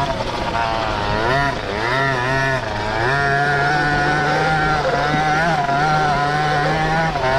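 Small carbureted two-stroke engine, a KTM 50 copy, on a half-tracked pocket bike, running at high revs. About a second in, the revs rise and fall several times, then hold fairly steady.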